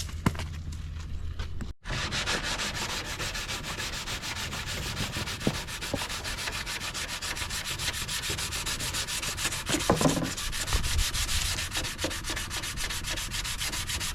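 Sanding of a plastic headlight lens: a steady, rapid, even scraping that starts about two seconds in, just after a brief gap.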